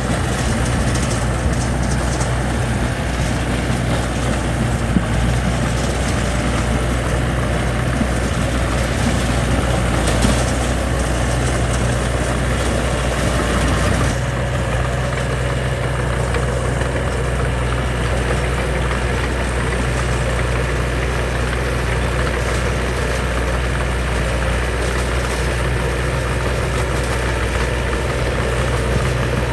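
Heavy diesel engine of construction machinery running steadily with a low drone.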